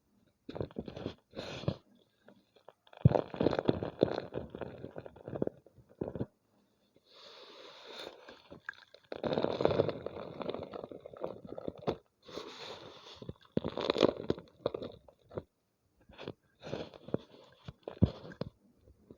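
A homemade gym chalk ball being crushed, with dry crunching and crackling in several bursts of a second or two and short pauses between them.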